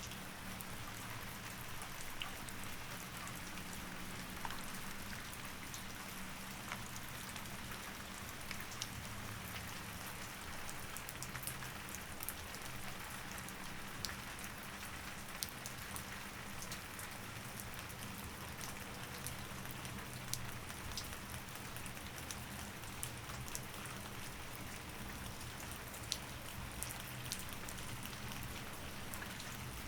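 Steady rain, with many individual drops ticking sharply on a hard surface over an even hiss, and a faint low hum underneath.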